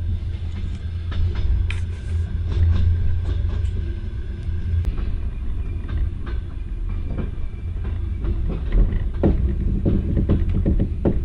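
Passenger train carriage running along the track, heard from inside the compartment: a steady low rumble with irregular clicks and knocks from the wheels and carriage, coming thicker near the end.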